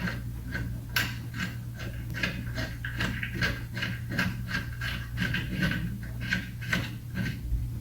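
Ratchet wrench clicking in quick, uneven strokes, about three or four clicks a second, as bolts on a car's rear brake are run in by hand, with a steady low hum underneath.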